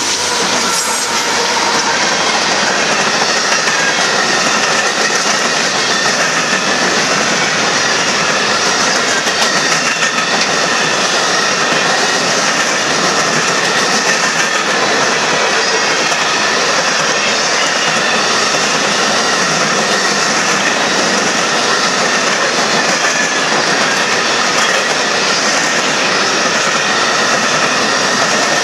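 Union Pacific coal train rolling past: the last diesel locomotive goes by at the start, then a steady run of coal cars, their steel wheels running over the rails with a thin, steady high squeal.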